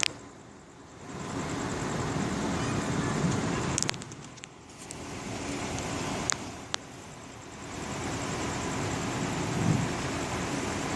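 Storm wind and rain rushing, swelling and easing in gusts every few seconds, with a few sharp clicks.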